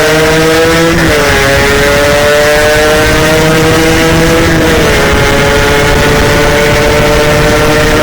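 Yamaha RX-King two-stroke motorcycle engine running hard under acceleration. The pitch climbs, drops sharply with a gear change about a second in, climbs again, drops with another shift a little past halfway, then holds steady.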